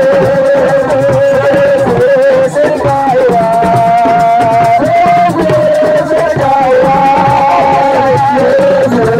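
Live Senegalese assiko band music: a voice holds long notes that step from one pitch to another, over a quick, steady beat of drums and a shaker.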